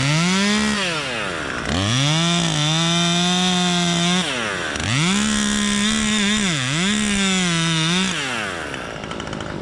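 Chainsaw revved to full throttle in three runs, its high engine note held steady and briefly sagging in pitch during the last run. It drops back down near the end.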